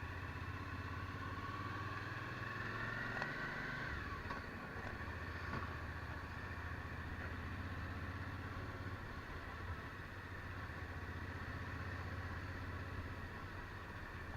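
Suzuki V-Strom DL1000's V-twin engine running on the move. The revs rise and fall away about four seconds in, then it runs evenly.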